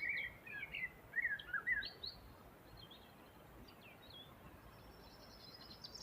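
Small birds singing and chirping: a burst of quick gliding chirps in the first two seconds, a few scattered calls after, and a rapid high twittering that builds near the end, over a steady background hiss.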